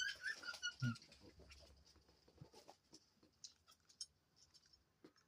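Soft, irregular clicks of a dove pecking seeds from a dish. A short run of faint cockatiel chirps comes in the first second.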